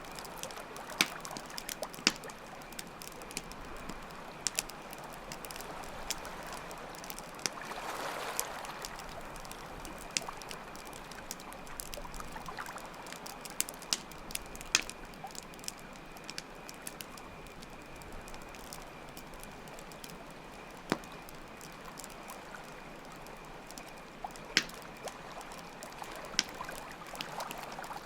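Campfire crackling, with sharp pops at irregular moments, over steadily running water and a faint, steady, high cricket trill.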